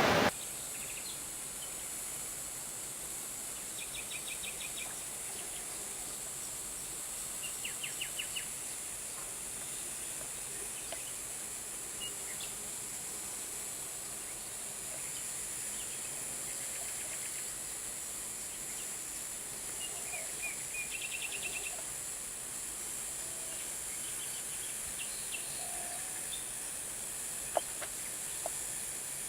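Small birds chirping in short, rapid trills several times over a steady high-pitched hiss, with a single sharp click near the end. A loud rushing noise cuts off abruptly right at the start.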